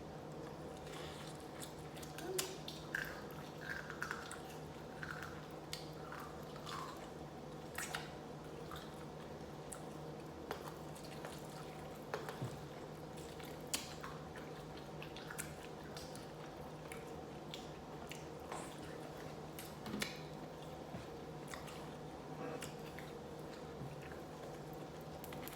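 Close-up chewing and eating sounds: a person chewing short rib meat and rice from Korean short rib soup, with scattered small wet clicks and mouth sounds over a steady low hum.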